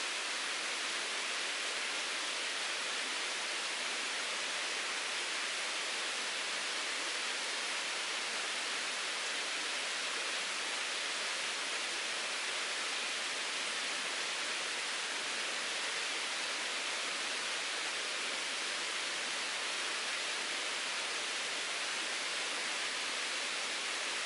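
Mountain stream water rushing and babbling in a steady, unbroken hiss.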